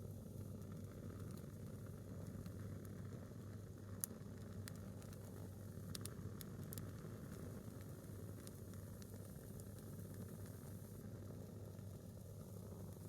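Single log of firewood burning in a small fire: a faint steady low rush with occasional sharp crackles, the loudest about four seconds in and a few more around six to seven seconds.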